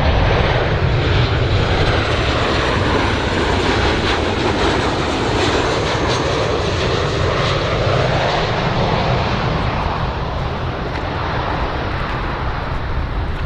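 Airplane engines running: a loud, steady rushing noise from a large aircraft that eases off slightly over the last few seconds.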